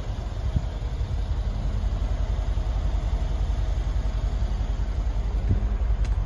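Mercedes E550's V8 idling with a steady low rumble, with wind buffeting the microphone.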